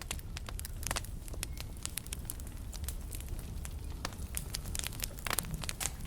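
Fire crackling, with irregular sharp pops over a low steady rumble.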